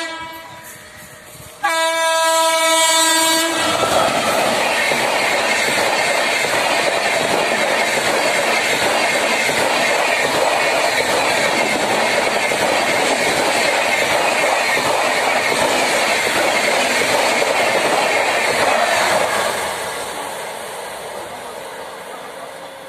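A train horn sounds a long blast about two seconds in, just after an earlier blast dies away. Then an LHB passenger train passes at speed with a steady rush of wheels and clickety-clack on the rails, fading gradually near the end.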